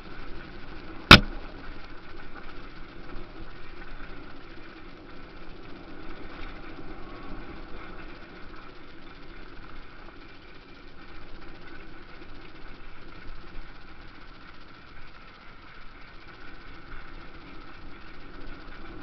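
Motocross bike engines running steadily, heard from a distance, with one sharp loud click about a second in.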